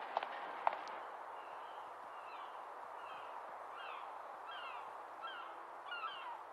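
Steady outdoor background noise with a couple of sharp clicks in the first second, then a bird calling over and over: short, high chirps that fall in pitch, often two close together, about two a second.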